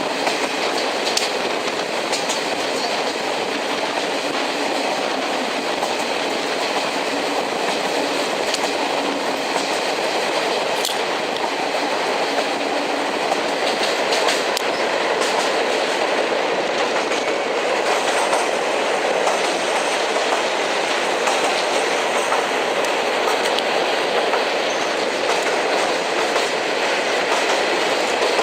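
Steady running noise of a train coach heard from inside, wheels rolling on the rails with faint clicking over the rail joints.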